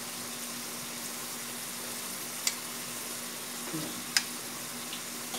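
Beaten egg and canned tuna sizzling steadily in a wok, with a metal spatula and spoon clicking against the pan twice, about two and a half and four seconds in.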